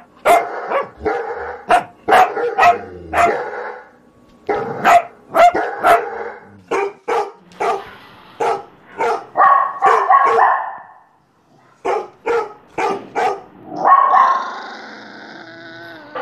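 A dog barking repeatedly in quick runs of sharp barks, with a brief pause just past the middle. Near the end the barks give way to a longer, rougher sound.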